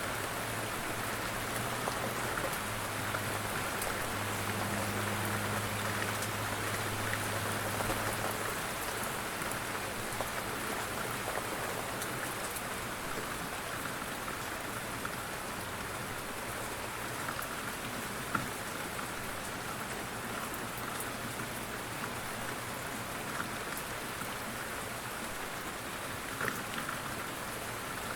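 Light rain falling steadily, a soft even patter with scattered louder drops. A faint low hum underneath fades out after the first few seconds.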